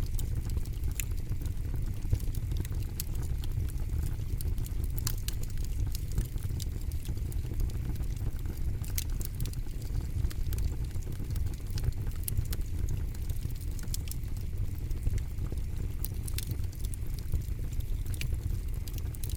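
Campfire burning, with frequent irregular sharp crackles and pops of burning wood over a steady low rumble of the fire.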